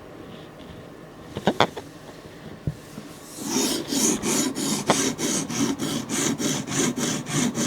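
A few light clicks and a knock, then a sharpening stone stroked rapidly back and forth along a steel knife edge: an even scraping at about four strokes a second that carries on to the end.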